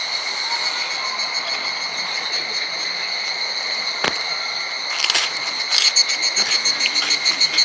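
Insects calling: a steady high-pitched drone, joined about five seconds in by a faster, pulsing chirp. A single sharp click sounds near the middle.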